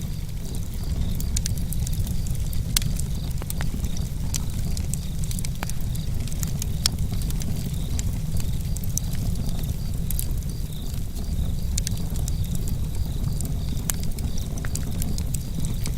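Campfire crackling: frequent sharp pops and snaps scattered irregularly over a steady low rush of the burning fire.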